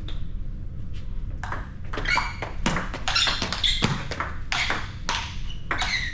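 Table tennis ball clicking off bats and bouncing on the table in a quick back-and-forth rally, starting about a second and a half in.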